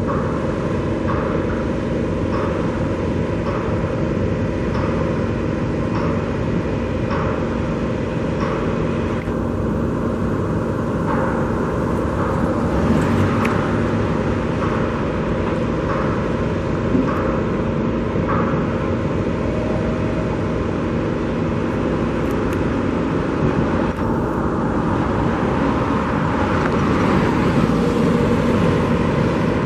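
Steady road traffic noise from passing vehicles. Faint short beeps repeat about once a second through roughly the first third.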